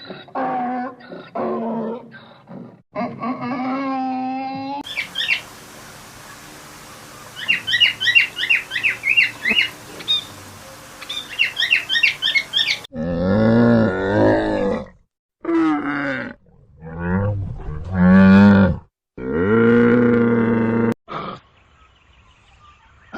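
A run of animal calls of different kinds: wavering whining calls first, then rapid high chirps over a hiss, then a series of loud, low, drawn-out calls with short pauses between them.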